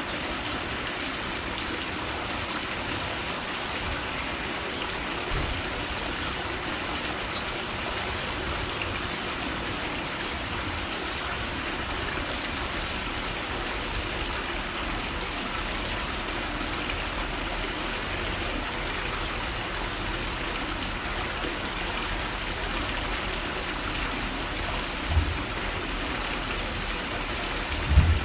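A steady, even outdoor hiss with no distinct calls, broken by a few dull low thumps, the strongest two near the end.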